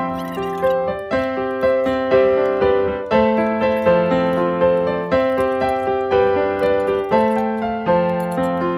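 Background piano music: a gentle melody of sustained notes over a steady pulse.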